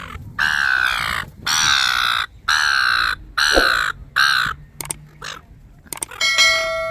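A crow-like bird gives about five long, harsh caws in a row, the last one shorter. It is calling in agitation at missing out on the peanuts being handed out. A steady, clear whistling tone comes in near the end.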